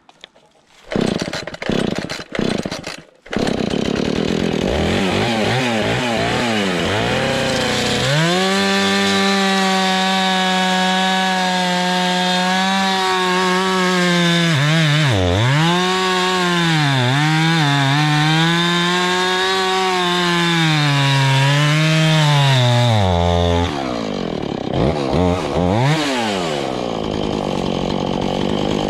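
Two-stroke chainsaw: after two short bursts it catches and runs, revving up about eight seconds in and cutting through a log, its pitch sagging under load several times. Near the end it drops back to idle, with a couple of brief revs.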